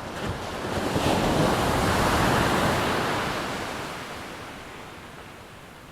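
PT-17 biplane's radial engine passing by, swelling to a peak about two seconds in and then fading away.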